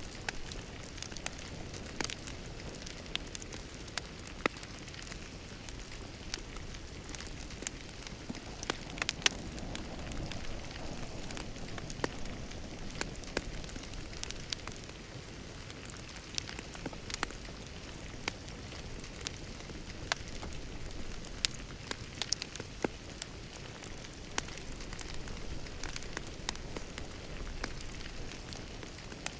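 Wood fire crackling in a fireplace: irregular sharp pops and snaps over a soft, steady low hiss of burning.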